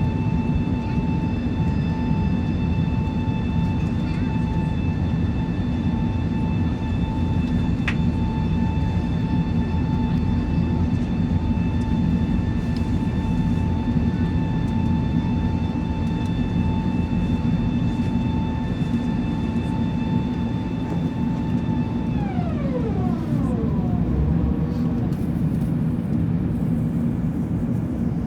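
Airbus A380 cabin noise during takeoff: a steady low rumble under a high whine with several overtones. The whine holds one pitch, then drops away over about a second and a half near 22 seconds in, leaving the rumble.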